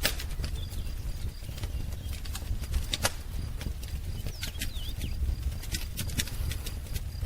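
Wood fire crackling, with irregular sharp pops over a low rumble. A few brief bird chirps come about four and a half to five seconds in.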